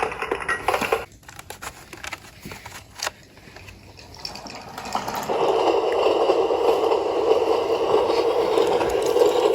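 Toy trains rolling along wooden Brio track: a few light clicks, then from about five seconds in a steady rolling rattle that keeps going.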